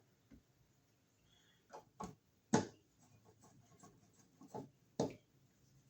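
Outlet cover plate and its screws being handled and fitted onto the box: five or so sharp clicks and taps, the loudest about two and a half seconds in.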